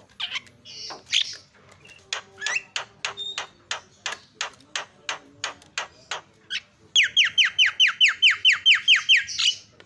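Javan myna (jalak kebo) calling: a run of sharp clicking notes about three a second, then about seven seconds in a loud, fast series of downward-sliding whistles, about six a second.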